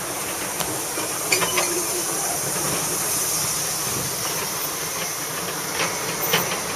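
Miniature park train rolling along its track: a steady hiss of running noise, with a few light clicks and knocks.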